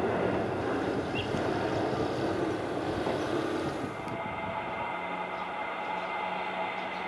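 Jet airliner's engines on takeoff, a broad rush fading away; about four seconds in the hiss drops off, leaving a steady low hum and a thin high whine.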